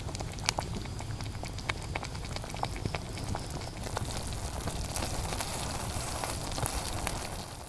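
Cooking fire crackling with scattered sharp pops, over a steady hiss of vegetables cooking in the pan.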